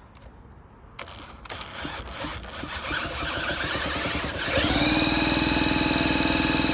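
Electric drill spinning the flywheel of a vintage British Seagull two-stroke outboard to crank it over. It starts about a second in, speeds up unevenly, and from about four and a half seconds settles into a loud, steady whine.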